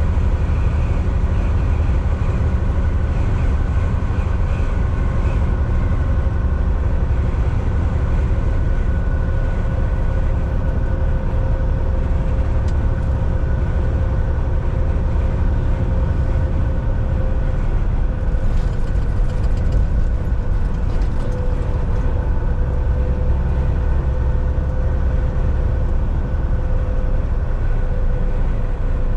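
Volvo VNL 760 semi truck cruising at highway speed, heard from the driver's seat in the cab: a steady low engine drone and road rumble with a constant hum above it. A few faint light rattles come about two-thirds of the way through.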